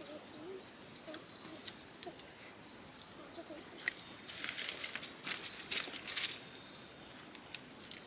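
Insects calling in a high, steady shrill chorus that swells and eases every second or two, with faint voices underneath.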